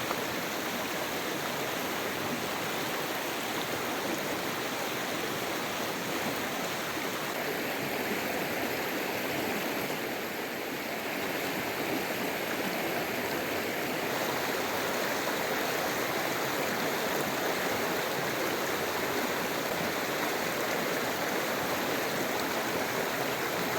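River water rushing over rocks: a steady, even roar of flowing water.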